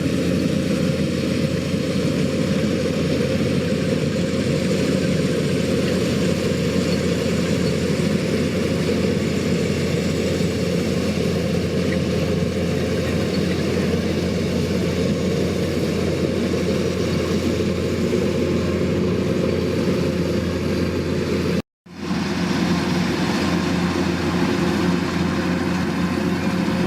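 Combine harvester running steadily while harvesting rice: engine and threshing machinery in one continuous drone. It cuts out for a moment about 22 seconds in, then carries on unchanged.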